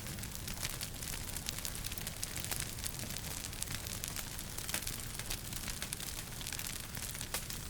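Wood fire crackling in a fireplace: many irregular sharp pops and snaps over a steady hiss and low rumble of burning.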